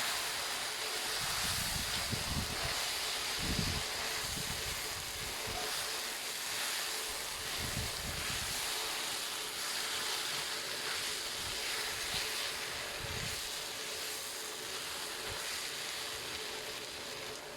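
Steady hiss of sugar and water heating in a pan on a burner, with a faint hum and a few low rumbles.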